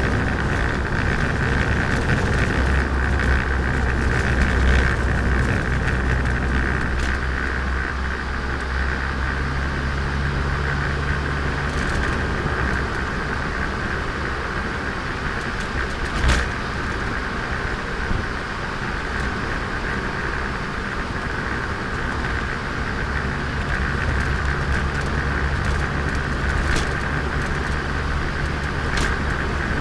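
Turbocharged Nissan Micra driving, heard onboard: steady engine and road noise, the low engine note swelling under load for several seconds early on and again near the end. A few sharp knocks cut through, the loudest about halfway.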